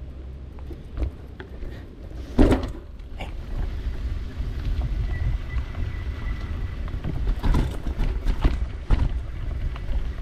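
Wind rumbling on an action camera's microphone while a mountain bike rolls along a trail, with a few sharp knocks and rattles from the bike over bumps, the loudest about two and a half seconds in.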